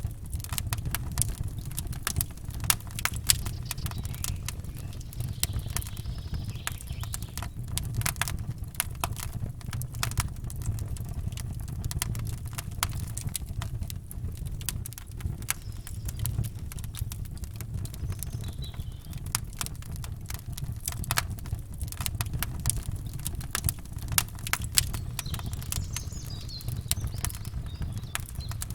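Campfire crackling and popping, dense irregular snaps over a steady low rumble.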